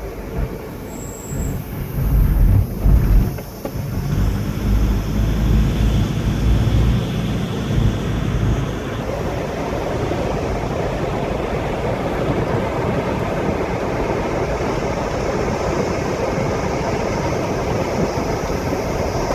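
A vehicle driving along a road, heard from inside. There is heavy low rumbling for the first several seconds, then a steady, even road noise.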